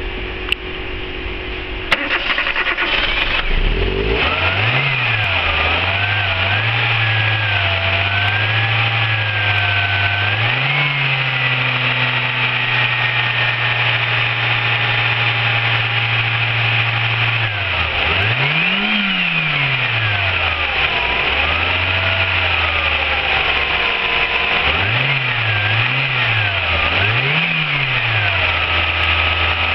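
Nissan GA16DE 1.6-litre inline-four petrol engine cranked and catching after a couple of seconds, then idling with several throttle blips, one longer rev in the middle and quick double blips near the end.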